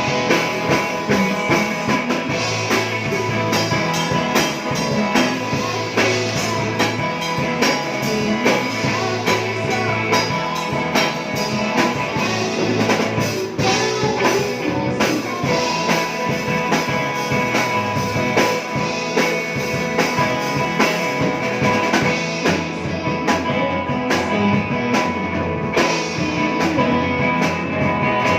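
Rock band playing live: electric guitar, bass and a drum kit keeping a steady beat.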